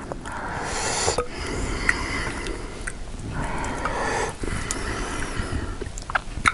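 A person breathing hard in and out through the mouth with a hissing, wheezing sound after eating very spicy Korean noodles, a sign of chili burn. There are several long breaths in a row.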